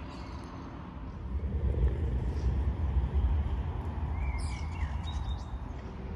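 Outdoor ambience: an uneven low rumble that grows louder about a second in, with a bird chirping a few quick notes past the middle.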